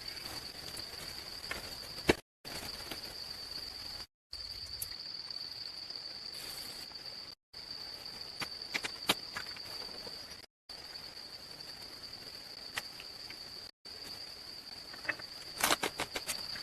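Insects droning on one steady high note, with scattered sharp clicks and knocks and a quick run of them near the end. The drone drops out to dead silence for a moment several times.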